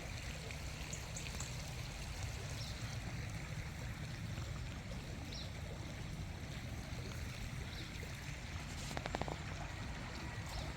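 River water flowing, a steady rushing noise, with a few brief clicks about nine seconds in.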